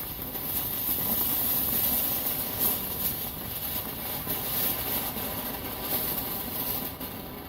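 Small ground fireworks burning, a steady loud hiss of sparks with a few faint crackles.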